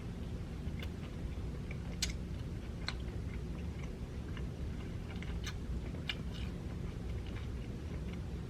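Close-up chewing of a shrimp egg roll dipped in sweet and sour sauce, with irregular small crunches and mouth clicks.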